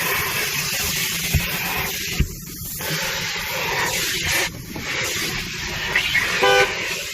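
Car wash vacuum running with a steady hiss, cut off briefly twice as the nozzle is worked inside the car. Near the end comes a short car horn beep, an accidental honk.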